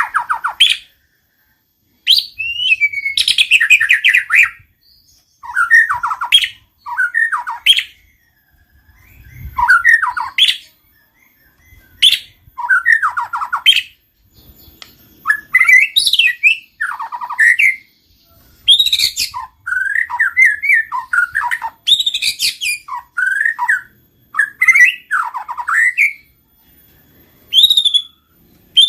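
White-rumped shama singing: loud, varied phrases of sweeping whistles and rapid chattering notes, each a second or two long, separated by short pauses.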